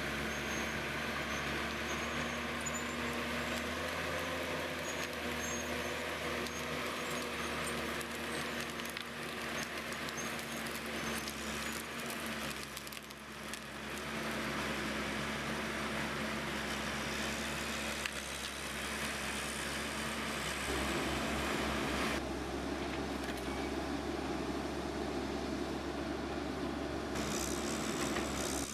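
Machinery engine running steadily, with the background noise changing abruptly a few times.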